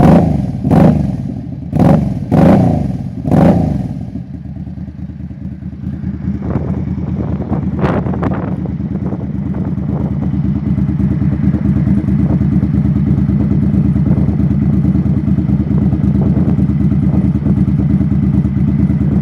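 Suzuki Intruder Volusia VL800's V-twin engine through a Vance & Hines Pro Pipe exhaust with a tightly wrapped stock baffle, blipped sharply four times in the first few seconds, then dropping back to idle. From about six seconds in it runs louder and steady, with a couple of sharp pops near the start of that stretch.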